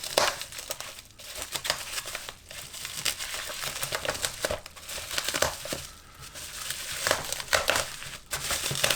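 Plastic packaging and bubble wrap crinkling and rustling as it is pulled apart by hand, in irregular crackly bursts.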